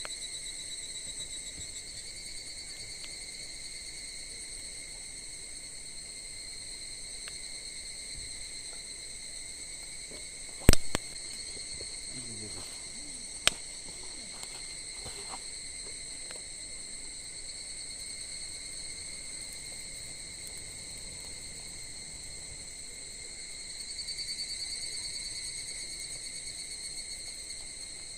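Insects singing in a steady, unbroken high trill. About a third of the way in come two sharp cracks, roughly three seconds apart.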